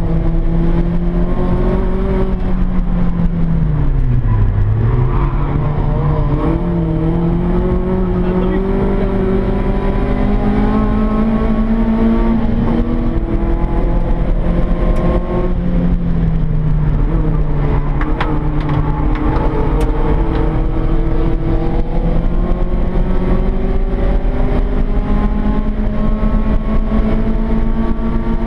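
Peugeot 106 Rallye's four-cylinder engine, heard from inside the cabin, working hard around a circuit. The revs climb and fall throughout, dropping sharply about four seconds in before climbing again.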